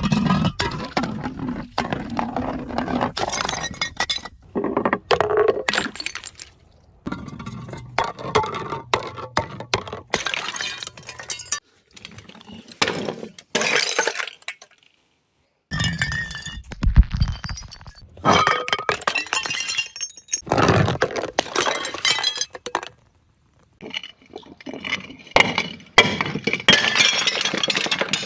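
Glass bottles breaking and shattering over and over, with crunching and clinking shards, in a run of short takes separated by two brief silent breaks.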